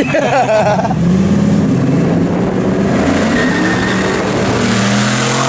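2006 Pontiac Grand Prix GXP's 5.3-litre LS4 V8 running hard through a muffler-deleted exhaust, its note rising slightly about a second in and then holding fairly steady.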